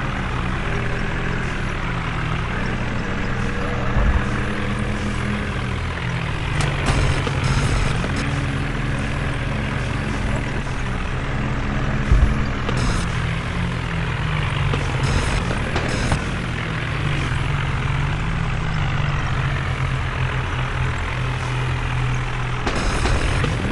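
Tractor engine running under load, its pitch rising and falling several times as the revs change, with a few sharp knocks over the steady drone.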